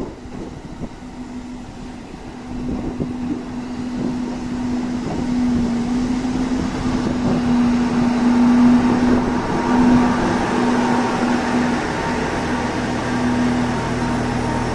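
JR Central KiHa 25 diesel railcar pulling into a station platform: a steady engine note under a rumble of wheels on rail that grows louder as the train draws alongside. A deeper hum and a faint high whine join near the end as it comes to a stop.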